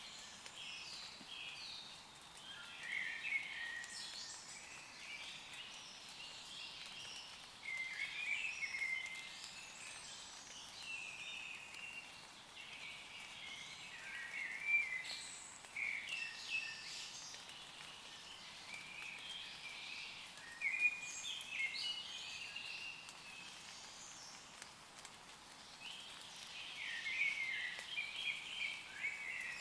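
Woodland birds singing, short chirping and warbling phrases coming one after another, over a faint steady hiss of light rain on leaves.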